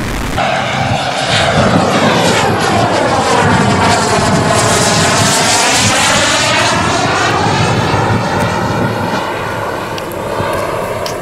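Twin KingTech K-235 G4 turbine engines of a 1/6-scale Su-30SM RC jet making a pass: a steady jet whoosh that swells about a second in and eases off near the end as the model flies by.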